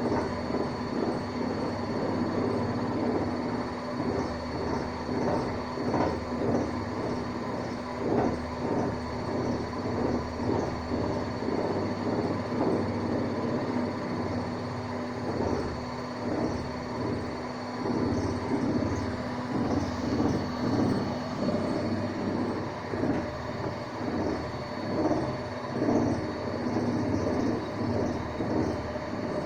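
Hanseatic washing machine on a loud spin cycle: a steady motor hum under a fast, uneven clattering rumble from the drum.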